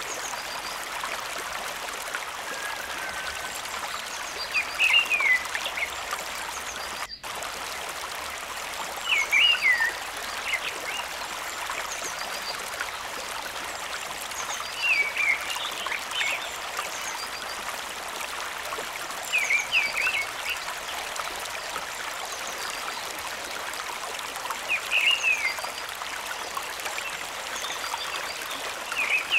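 Steady rush of water from the stream and waterfall, with a short animal call repeating about every five seconds. A brief break in the sound about seven seconds in.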